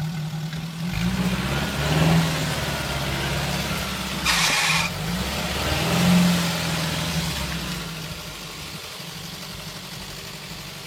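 An engine running and being revved: its pitch rises about two seconds in and again around six seconds, then it settles to a steadier, quieter idle. A short hiss comes about four and a half seconds in.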